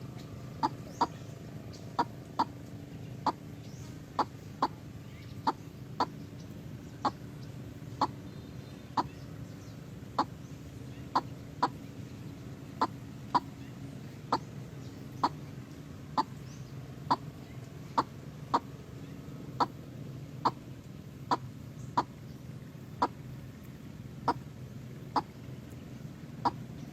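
A bird giving short, sharp calls, about one or two a second, over a steady low hum.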